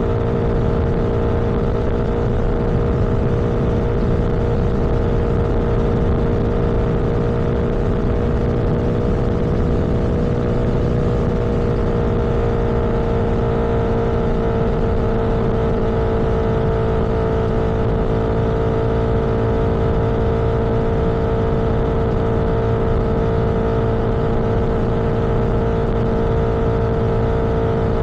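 A vehicle engine running at a steady cruising speed, its hum easing slightly lower about ten seconds in and then holding, over constant low road noise.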